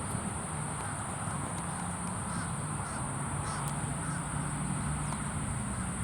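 Outdoor birds calling, a short series of calls about two to four seconds in, over a steady high-pitched hiss and a low background hum.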